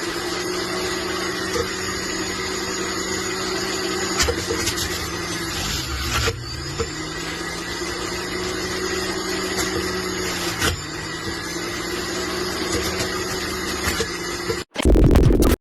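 A JUILIST 400 W centrifugal juice extractor's motor running with a steady hum, dipping briefly in pitch about six seconds in. Near the end the sound breaks off for an instant and gives way to about a second of louder, harsher noise.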